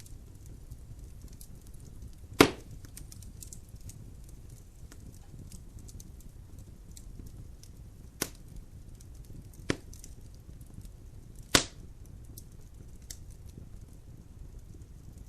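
Logs burning in a fireplace: a steady low rumble of flames under faint fine crackling, with four sharp pops from the wood, the loudest about two seconds in and again near two-thirds through.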